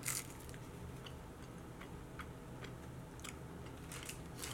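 A crisp bite into a taquito right at the start, then quiet, close-up chewing with small scattered clicks and crackles.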